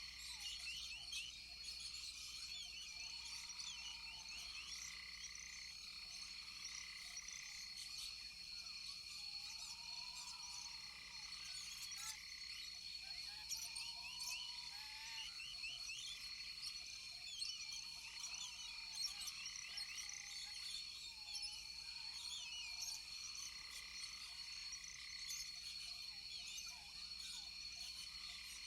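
Rainforest chorus of frogs and insects: short arched calls repeat every couple of seconds over a dense scatter of high chirps and a steady high-pitched insect tone.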